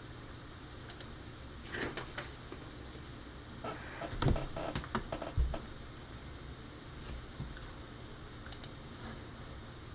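Scattered clicks and taps of a computer keyboard, with a couple of soft thumps about four and five seconds in, over a faint steady hum.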